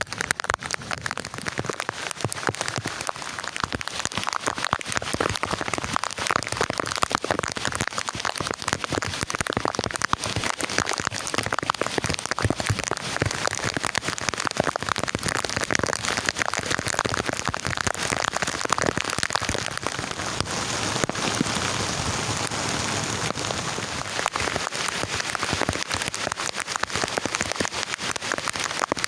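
Heavy rain falling steadily, a dense stream of separate drops striking close to the microphone.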